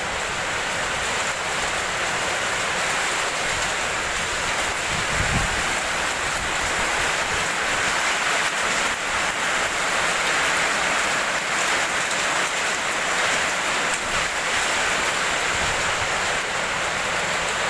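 Heavy rain pouring steadily in a storm, with a brief low rumble about five seconds in.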